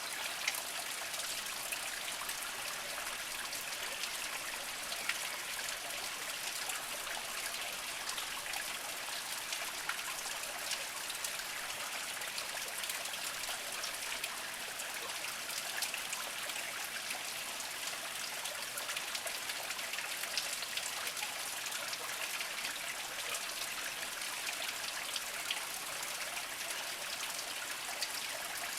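Small spring water trickling and splashing over mossy rocks: a steady, even trickle with many small drips and splashes.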